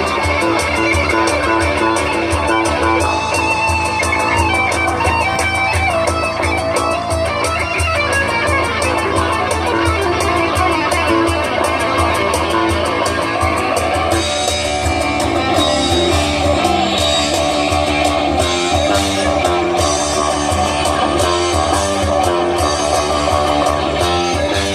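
Country-rock band playing live through a PA system: electric guitars over bass and a steady drum beat. The sound gets brighter in the high end a little past halfway.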